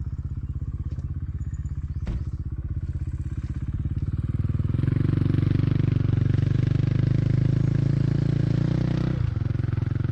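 A small engine running with a steady, even pulse; it grows louder about halfway through as the throttle opens, then drops back with a short fall in pitch near the end.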